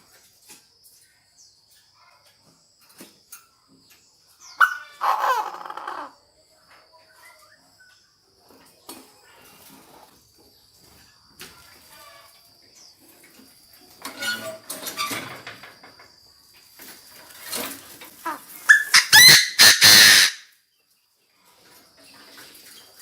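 Chinese francolin calling: a decoy bird's harsh crowing phrases, in three bouts, about five seconds in, around fourteen seconds, and loudest near the end. A faint steady high tone runs underneath.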